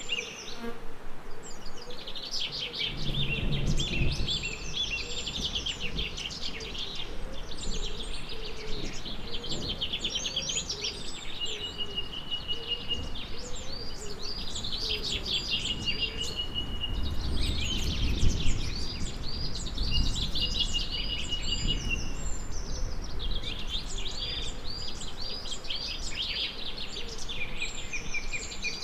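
Several songbirds singing and calling in quick repeated phrases, with a high steady trill held for a second or two a few times. A low rumble swells about three seconds in and again around eighteen seconds.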